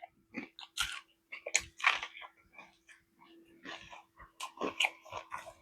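A person chewing and biting food close to the microphone: a run of irregular short crunches and clicks.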